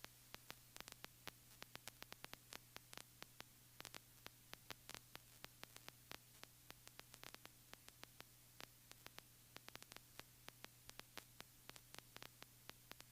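Near silence on the headset and radio audio line: a faint steady electrical hum with scattered faint static clicks.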